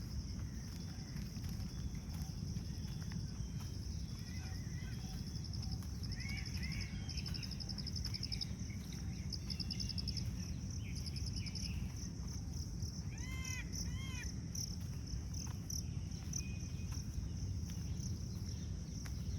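Insects chirring steadily in a high, thin band, pulsing quickly in stretches through the middle, with birds calling over it. A short pair of arched, ringing bird calls comes about two-thirds through. A steady low rumble runs underneath.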